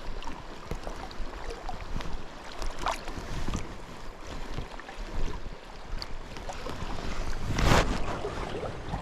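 Water moving and splashing around a small inflatable river raft, with light knocks and wind on the microphone; a louder rushing splash comes about three-quarters of the way through.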